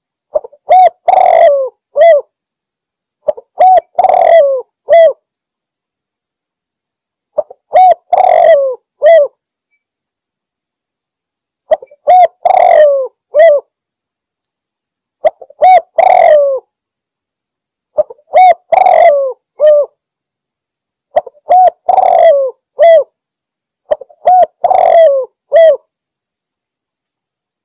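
Spotted dove (tekukur) cooing. A phrase of several coos comes about every three to four seconds, seven times. It is the challenge call used to lure a rival dove.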